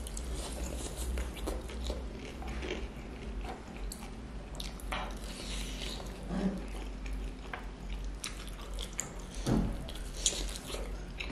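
A person biting into and chewing fried chicken with rice, heard close up: irregular soft clicks and wet mouth sounds. A low steady hum runs underneath.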